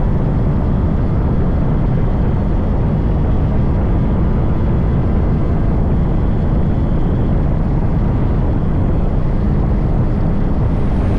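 Yamaha RX 100's 98cc air-cooled two-stroke single running steadily while riding at speed, largely buried under loud, steady wind rumble on the microphone.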